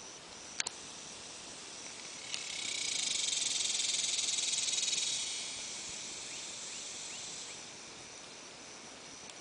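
A high hissing buzz that swells in about two seconds in, holds for a few seconds and fades away, over a faint steady high whine, with a sharp click just before.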